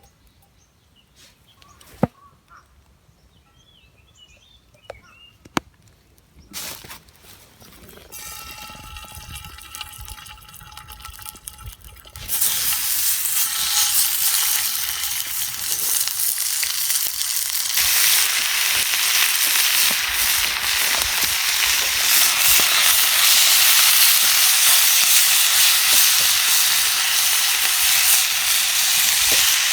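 A few light knocks and clicks, then a faint hiss from the heating pan. About twelve seconds in, chicken and leeks go into the hot pan and sizzle loudly, the frying growing louder again a few seconds later and holding steady.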